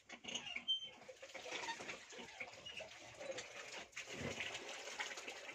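Faint bird chirps over quiet ambient noise, with a few short high calls.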